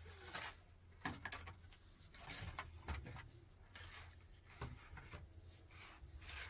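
Scattered light knocks and clicks of objects being handled, over a low steady hum.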